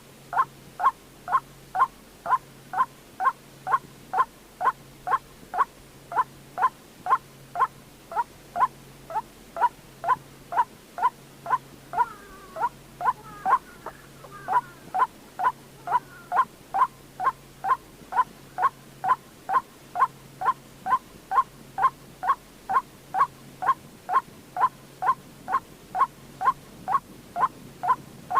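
White-breasted waterhen giving its monotonous repeated 'kwok' call, short notes about two a second. Around halfway through, a few extra notes overlap the steady series.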